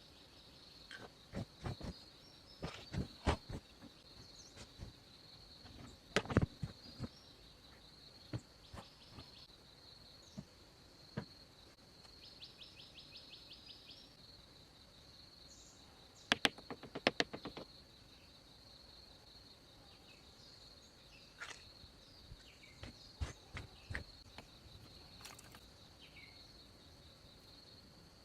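Insects, crickets or cicadas, keeping up a steady high drone, with a short pulsing trill about halfway through. Over it come scattered clusters of sharp knocks and clicks.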